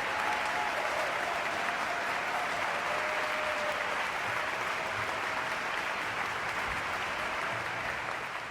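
Concert hall audience applauding steadily after a soprano aria, with a few faint shouts of bravo, fading out near the end.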